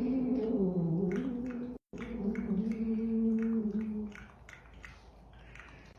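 A pet's low, drawn-out call, wavering in pitch, breaks off at a sudden cut just under two seconds in. A steadier held low call then follows for about two seconds, and after it comes a quiet stretch with faint ticks.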